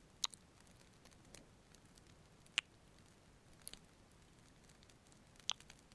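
Faint fireplace crackle: a soft hiss broken by a few sharp, isolated pops, about four in all.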